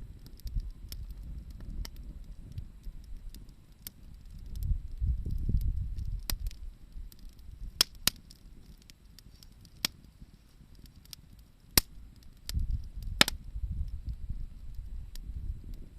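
Wood campfire crackling, with scattered sharp pops and snaps, the loudest a double snap late on. Low rumbling swells rise and fall underneath twice.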